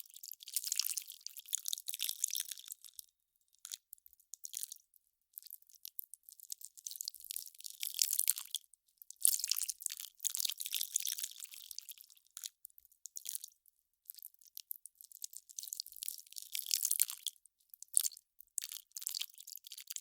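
Ice crackling and popping as it melts, with dense clusters of small, crisp, high crackles. They come in irregular bursts a second or a few seconds long, separated by short gaps.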